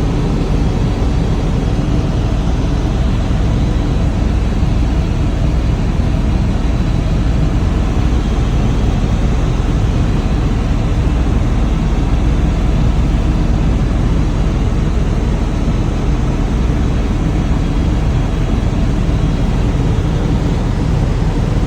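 Helicopter in flight: a loud, steady, deep rumble of rotor and engine.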